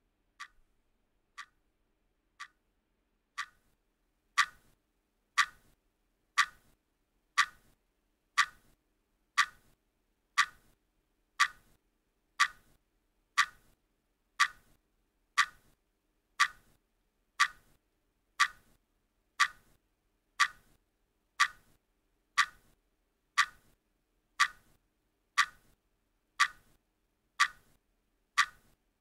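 Ticking of a countdown timer, one sharp tick per second, faint for the first few ticks and then steady and louder from about four seconds in.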